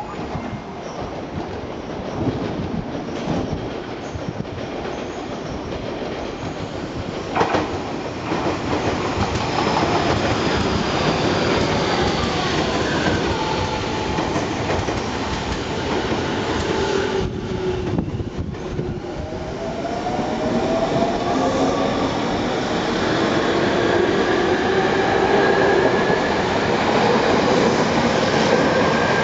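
Tobu 30000 series electric train pulling out and accelerating. Its traction motors give a whine that rises in pitch in several steps, over the rumble of the wheels clacking on the rails.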